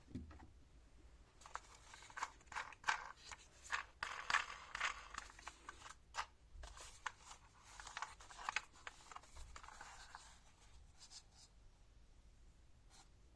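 Faint irregular clicks, scrapes and rustles of a plastic toy car and its packaging being handled, thinning out near the end.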